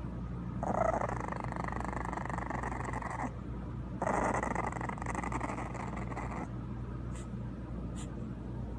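A dog growling twice, each growl rough and about two and a half seconds long.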